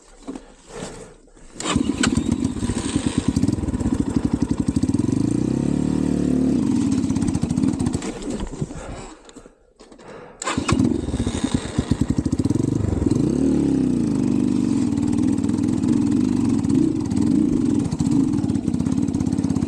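Xpro Templar X 250 dirt bike's single-cylinder engine starting about two seconds in and revving up and down. It dies away about halfway through and fires again, then revs up and down some more. It is bogging and stalling, which the rider puts down to his carb tuning, perhaps running lean.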